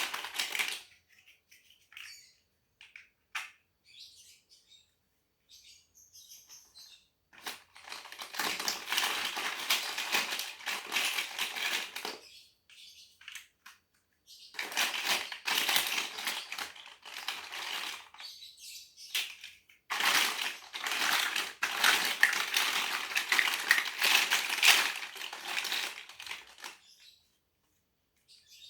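Plastic Lego bricks clattering as a hand rummages through a pile of them, in three long stretches of dense rattling with short pauses between.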